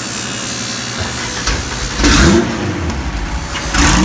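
Turbocharged Honda K20 four-cylinder engine running, blipped twice: the revs rise and fall quickly about two seconds in and again near the end.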